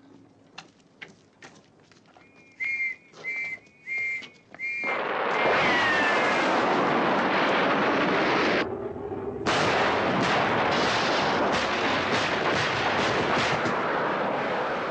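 Four short, shrill whistle blasts, then a sudden loud, dense din full of sharp cracks. The din drops out for about a second midway, then carries on.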